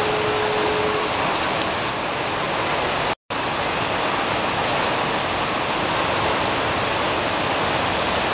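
Heavy rain pouring down steadily. A brief steady tone sounds in the first second, and the sound cuts out completely for a split second about three seconds in.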